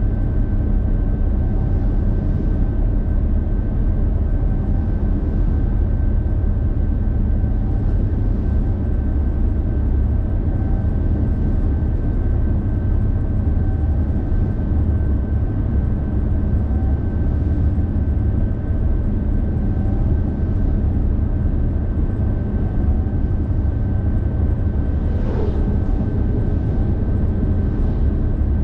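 Road noise heard from inside a car driving on the highway: a steady low rumble with a thin, steady high whine, and a faint swish repeating about every three seconds. A short falling swoosh comes near the end.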